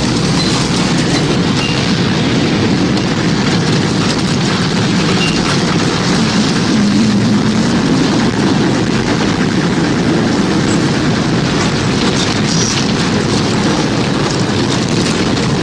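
Tornado wind sound effect: a loud, steady, deep rushing noise with no breaks and no siren.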